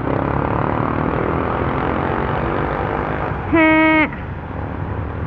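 Motorcycle riding in city traffic: steady engine and road noise, with a single vehicle horn beep of about half a second, three and a half seconds in.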